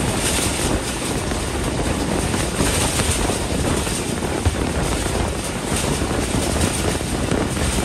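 Passenger train coaches running at speed, heard from an open doorway: a steady rush of wheel and rail noise mixed with wind blowing past.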